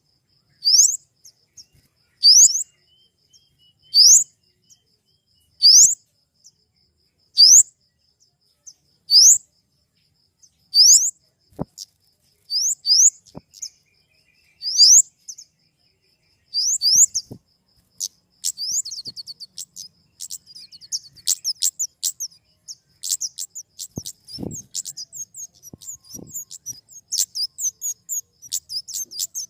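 Flowerpecker calling: sharp, high, upward-sweeping notes, single or doubled, repeated about every second and a half to two seconds. After about eighteen seconds these change to a rapid, busy run of short ticking notes.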